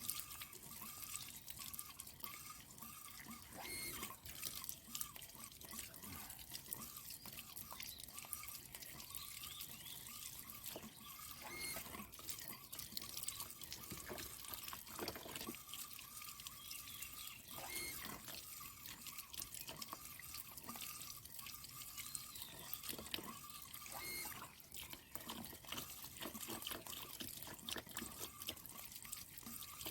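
Water running and dripping, with scattered small clicks and splashes, as stream water flows through a water tank's filter.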